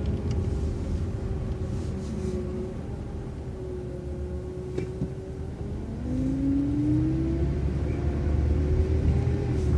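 Transit bus running, its drivetrain whine dipping and then rising again as the bus picks up speed about six seconds in, with a single short click near the middle.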